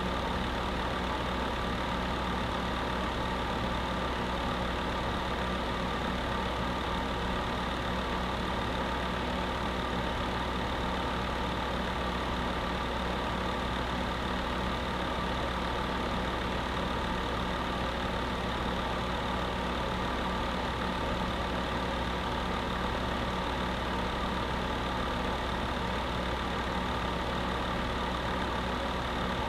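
Space heater running with a steady, unchanging whir and a low hum.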